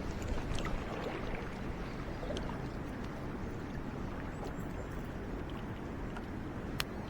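Mountain stream water rushing steadily, with a few faint clicks and one sharper click near the end.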